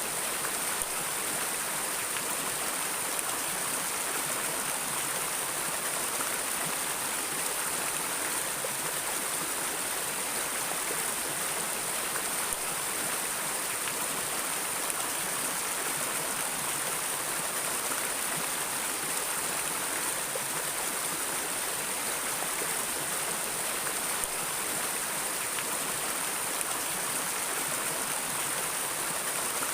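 Stream water flowing steadily over rocks, an even rushing hiss with no breaks.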